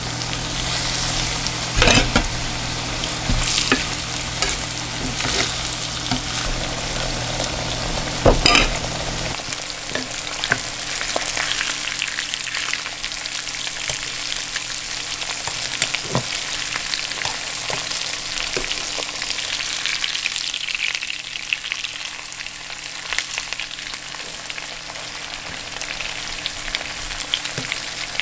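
Breaded walleye fillets sizzling in hot oil in a nonstick frying pan, a steady hiss. Metal tongs knock against the pan a few times as the fillets are moved and turned, with the loudest knocks about two seconds and eight seconds in.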